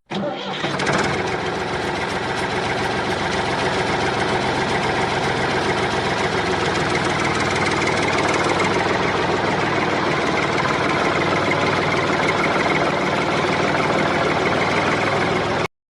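Small DC motor running steadily with a dense buzzing whir; it starts suddenly and cuts off suddenly near the end.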